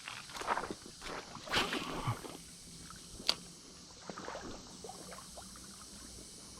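Shallow creek water splashing and sloshing irregularly around a wading angler's legs, with a sharp click about three seconds in, then quieter.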